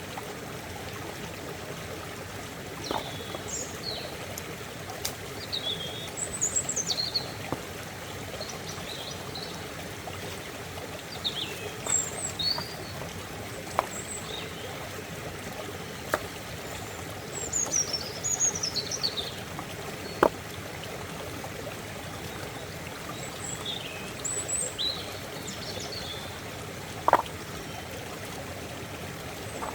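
A stream flowing and trickling steadily, with small birds chirping at intervals throughout and a few brief sharp sounds standing out, the loudest about twenty and twenty-seven seconds in.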